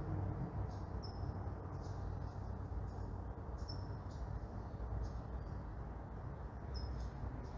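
Bird chirping in short high notes, repeated a bit more than once a second, over a steady low rumble of distant traffic.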